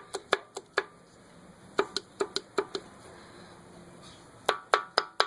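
Irregular sharp clicks and clinks from engine parts being handled. They come in three groups: a few in the first second, a quick run in the middle, and another cluster near the end.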